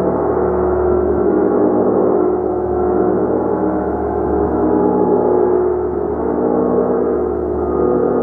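Gong played continuously: a dense wash of overlapping sustained tones that swells and ebbs gently every couple of seconds, with no single strike standing out.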